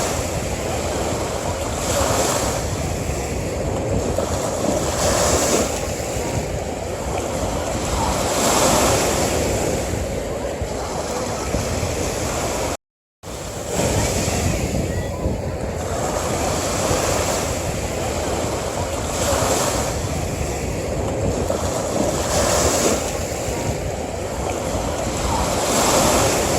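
Ocean waves washing onto a beach: a steady rush of surf that swells roughly every three seconds. About halfway through, the sound cuts out completely for a split second.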